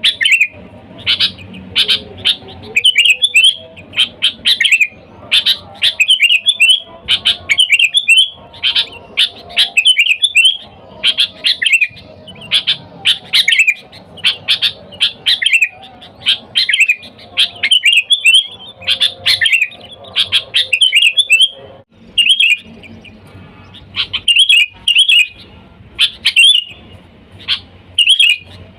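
Sooty-headed bulbul (kutilang) calling in a lively run: short, loud, bubbling chirp phrases, about one a second, with a brief pause partway through.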